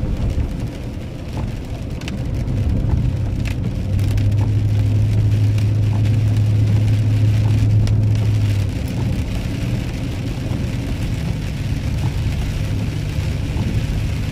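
Steady low drone of a vehicle driving on a wet road, heard from inside the cabin, swelling louder for a few seconds in the middle, with light patter of rain on the vehicle.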